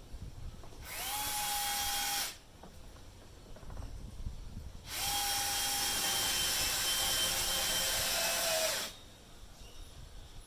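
Electric drill running in two bursts, a short one about a second in and a longer one of about four seconds midway. Each starts with a rising whine that settles to a steady pitch, and the longer burst sags slightly before it stops.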